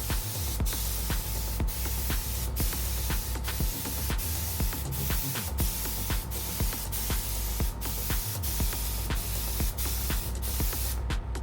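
Steady hiss of primer being sprayed onto bare metal, broken briefly about once a second, and stopping near the end.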